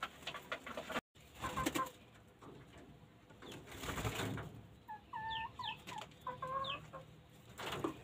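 A bird gives a short run of clipped calls with quick upward sweeps about five to seven seconds in, over soft rustles and taps.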